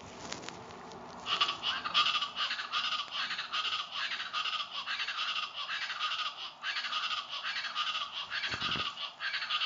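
East Brazilian chachalacas calling: a long run of rapidly repeated calls starting about a second in and continuing to the end.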